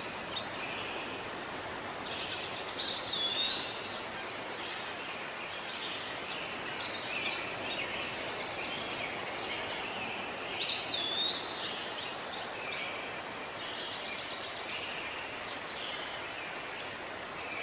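Several birds chirping and calling over a steady background hiss, with a whistled call that rises and then slides down, heard twice, about 3 seconds in and again near 11 seconds.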